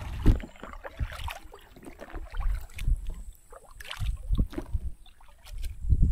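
A boat paddle dipping and pulling through river water, splashing in uneven strokes about once a second, with low thumps among them.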